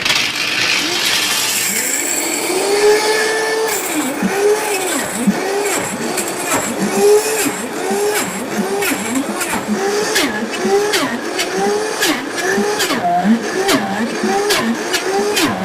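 Food processor switched on and grinding hazelnuts, almonds, soaked dates and cocoa powder into a thick, sticky paste. The motor starts suddenly, and its pitch dips and recovers about one and a half times a second as the heavy mass drags on the blade, with sharp ticks throughout.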